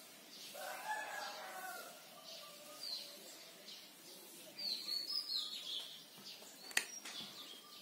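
Faint bird calls: short high chirps and one longer crowing call, lasting about a second, that starts about half a second in, over the rub of a cloth wiping a whiteboard. A single sharp click comes near the end.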